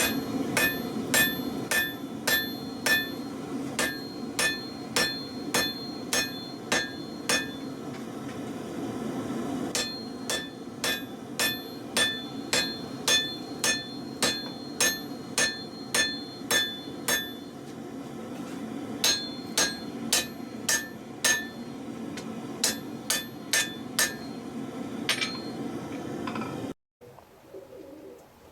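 Hand hammer striking a hot truck leaf-spring steel bar on an anvil, about two ringing blows a second in runs with short pauses, forging the katana blade, over a steady low roar. The hammering cuts off abruptly near the end.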